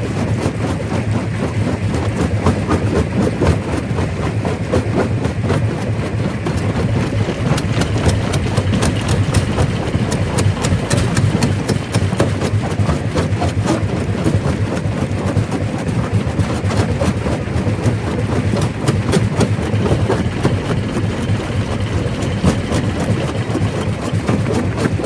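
Quarry primary rock crusher running: a steady heavy rumble under dense, continuous clatter and knocking as rock is broken.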